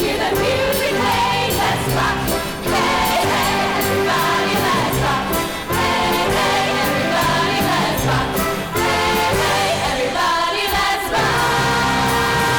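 Live music: a band playing a song with a steady drum beat and several voices singing together.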